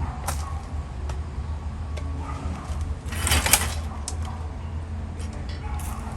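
Scattered small clicks and taps of tools being handled, with a brief rustling burst about three seconds in, over a steady low hum.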